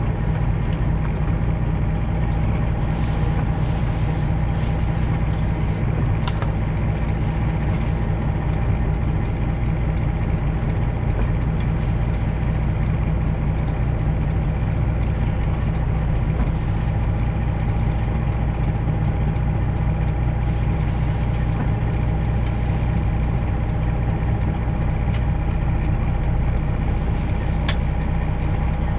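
A Detroit Diesel 12.7-litre Series 60 in a Freightliner Classic XL semi running steadily at low speed, with a deep, even drone heard from inside the cab.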